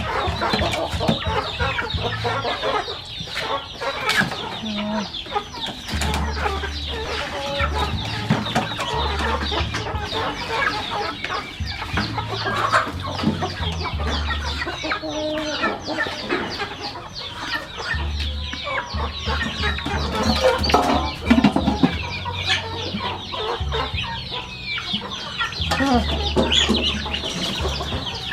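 Chickens clucking continuously, with many small sharp clicks and taps among the calls.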